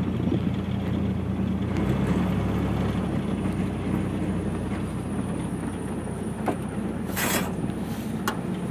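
Pickup truck moving on the road, heard from its open bed: a steady engine hum with road and wind noise, the engine note shifting about two seconds in. A short hiss comes about seven seconds in.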